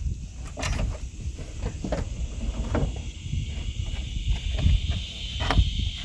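Rear seatback latches of a Chevrolet Spark being released and the seatbacks folded down: a few sharp clicks and knocks, over a low rumble of wind on the microphone and a steady buzz of insects.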